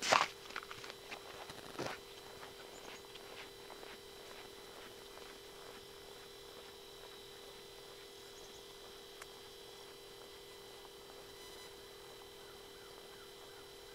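Footsteps crunching on snow-covered ice, loudest at the start and fading over the first few seconds as the walker moves away. A faint steady hum of two even tones carries on underneath.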